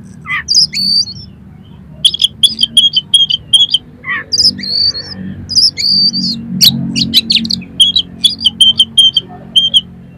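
Oriental magpie-robin (kacer) singing a loud, varied song: quick runs of repeated sharp high notes, broken by whistled slurs and harsh calls, over a low steady hum.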